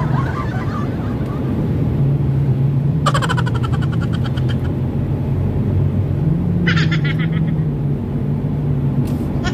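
Car engine and road noise heard from inside the cabin, a steady low drone while driving in city traffic, with two short buzzy vehicle horn blasts, one about three seconds in and a shorter one near seven seconds.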